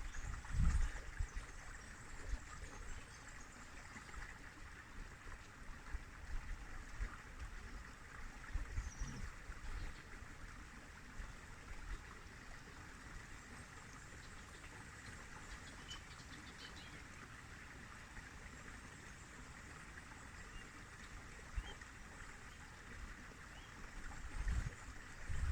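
River water flowing steadily, with brief low rumbles at the start, about nine seconds in, and near the end.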